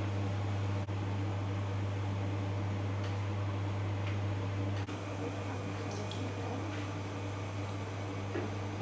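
Steady low electric hum of a running kitchen appliance motor, with a few faint clinks.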